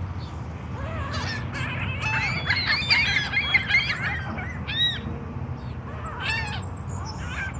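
A group of crows cawing over one another as they squabble over food, most crowded about two to four seconds in, with a few single caws after. A steady low rumble runs underneath.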